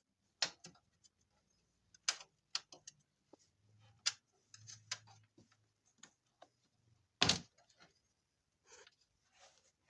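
Scattered sharp clicks and knocks of hand tools and car parts being handled in a garage workshop, the loudest knock about seven seconds in, with a faint low hum in the middle.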